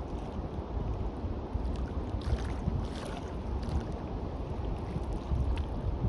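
Sea surf washing on a beach, a steady rolling wash with a brief brighter hiss of water a couple of seconds in, mixed with wind buffeting the microphone as a low rumble.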